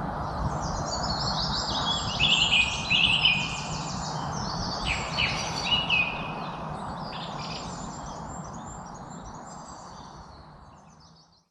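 Several songbirds chirping and trilling over a steady background hiss, busiest about two to six seconds in, then the whole sound fades out near the end.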